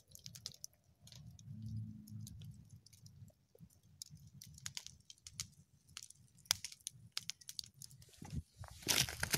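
Campfire of dry deadwood crackling as it burns down, with scattered sharp pops. Near the end a louder burst of rustling and crunching comes in.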